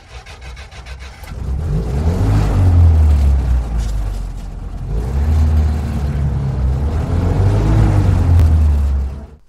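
Motor vehicle engine revving, its rumble rising and falling in pitch in two long swells, then cutting off suddenly near the end.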